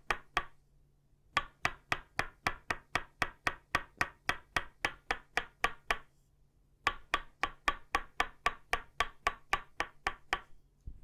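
Tok sen wooden mallet tapping a wooden stake, both of itaúba wood, in a steady, quick rhythm of about four sharp knocks a second. The knocking comes in three runs, broken by two short pauses, about a second in and about six seconds in, and stops near the end.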